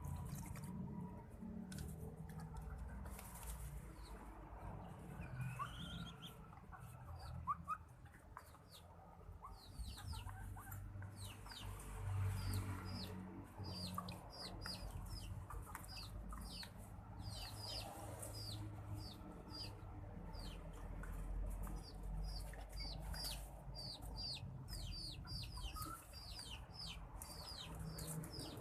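Birds chirping in an aviary: short, high, downward-sliding chirps repeated several times a second, starting about a third of the way in, over a low steady rumble.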